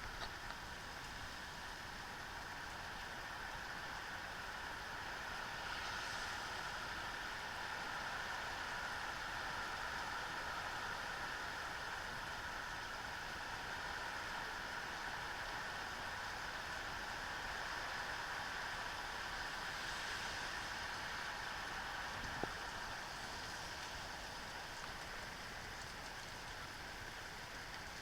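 Steady rain falling, a continuous even hiss, with one small tap about 22 seconds in.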